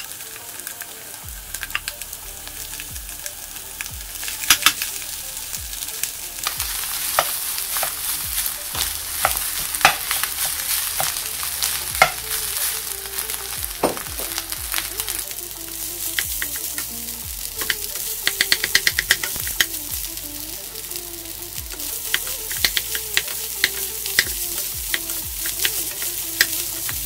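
Rice frying in a hot oiled wok with diced Spam, peas and carrots, sizzling steadily while wooden spatulas stir and toss it, with many sharp clacks and scrapes of the spatulas against the wok, including a quick run of them about two-thirds of the way through.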